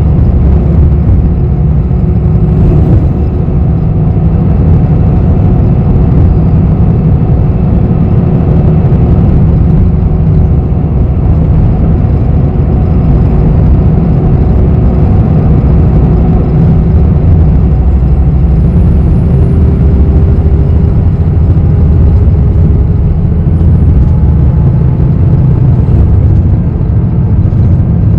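Steady low rumble of a bus's engine and road noise heard from inside the cabin, with a steady hum over it. A faint high whine rises and falls in the second half.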